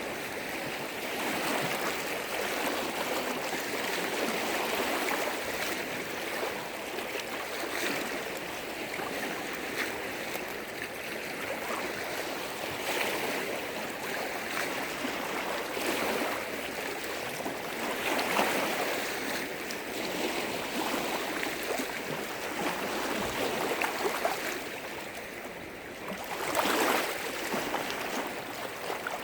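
Lake waves breaking and washing against the shore: a continuous rush of water that swells and eases every few seconds, with the loudest surge near the end.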